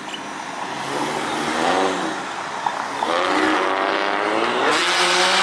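Ford Mustangs driving off past the roadside, engines revving up one after another, a rising note about a second in and a longer one from about three seconds in.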